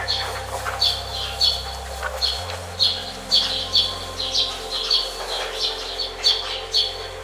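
A bird chirping over and over, short high chirps about twice a second, over a low steady hum that shifts in pitch about two and a half seconds in.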